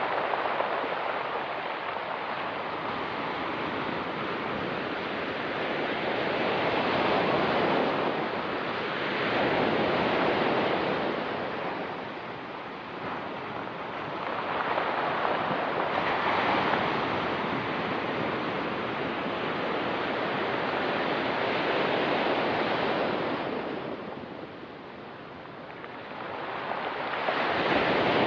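Ocean surf on a pebble beach: waves breaking and washing up, swelling and easing every several seconds.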